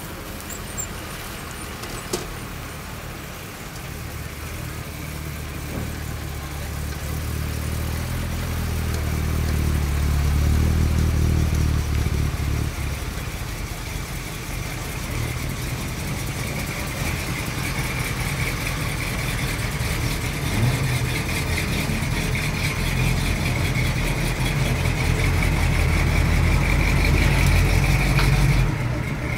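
Engines of American show cars driving slowly past, a low rumble that swells to its loudest about ten seconds in and eases off, then builds again with another car until it cuts off suddenly just before the end.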